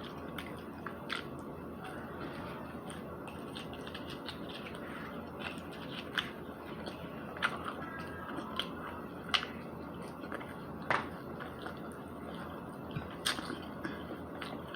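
A person chewing spicy chicken McNuggets close to the microphone, with irregular soft mouth clicks and smacks over a steady room hum.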